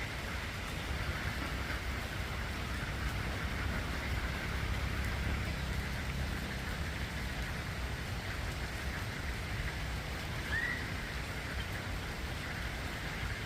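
Steady rain, with a short chirp late on.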